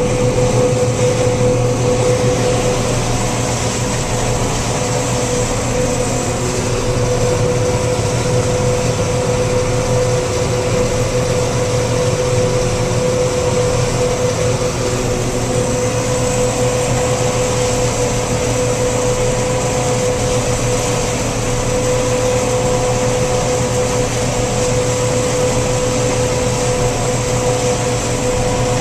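Harvest machinery engine running steadily, a low hum with a steady whine over it.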